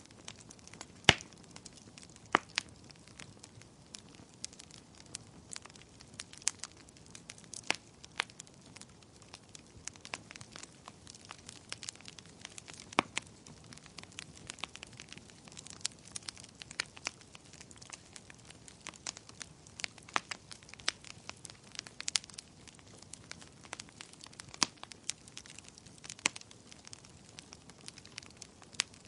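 Wood campfire burning, with irregular sharp pops and snaps over a soft steady hiss; the loudest snap comes about a second in.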